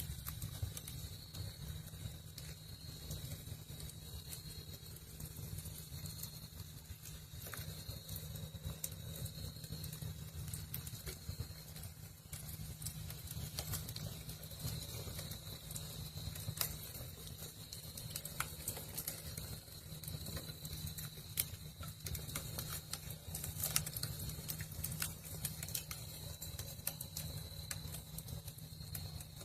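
Wood fire crackling in a fireplace: scattered small pops and snaps over a steady low rumble.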